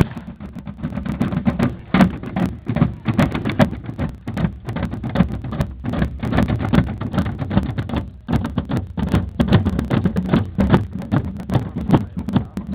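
A marching band playing as it passes, with drums and percussion strikes loud throughout.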